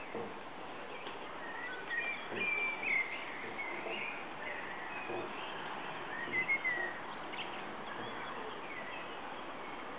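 Small birds chirping: several short, high chirps and whistles, loudest about three seconds in and again around six and a half seconds, over steady background hiss.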